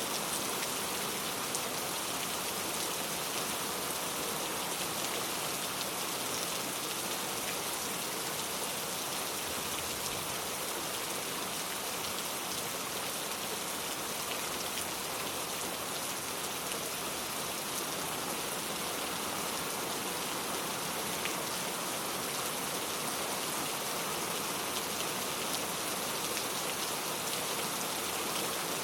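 Steady rainfall, with many small drops pattering on a surface in an even, continuous hiss.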